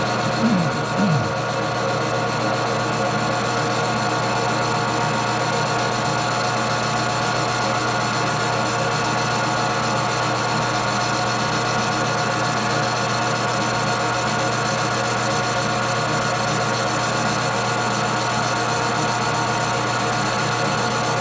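Metal lathe running steadily under power while rough-turning a workpiece, a constant machine hum made of many steady tones. Two short falling squeaks come within the first second or so.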